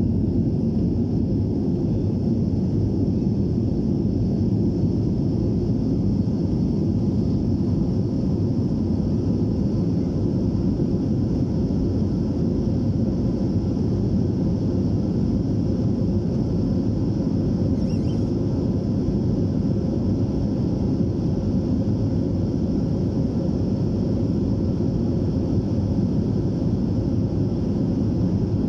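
Steady cabin noise of a BAe 146-200 airliner: its four Lycoming ALF502 turbofans and the rush of air, heard as a deep, even rumble with a faint high whine on top.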